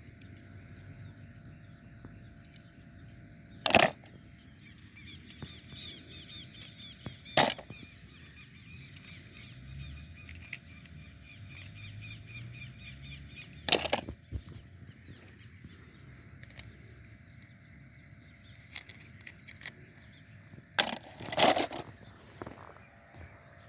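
Outdoor nature ambience with birds calling, a run of repeated calls between about five and nine seconds in. Sharp knocks break in four or five times, two of them close together near the end.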